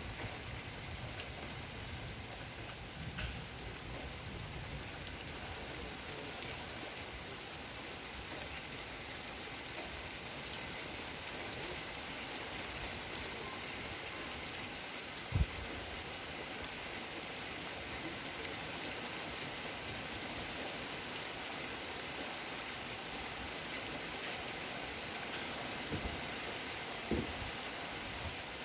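Rain falling steadily, an even hiss of drops. One sharp low thump about halfway through and two softer knocks near the end.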